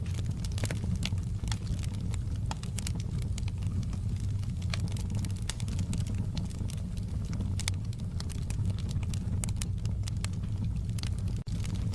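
Wood fire in a fireplace crackling: irregular sharp pops over a steady low rumble. The sound drops out for an instant near the end.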